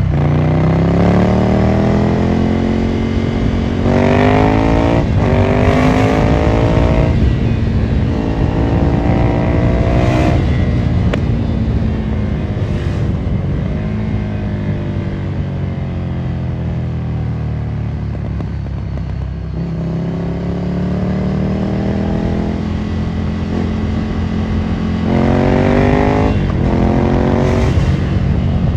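Ducati Monster 797's L-twin engine through a Termignoni exhaust, accelerating through the gears: the pitch climbs and drops back at each upshift. In the middle it falls away as the bike slows on the overrun, then it pulls up through the gears again.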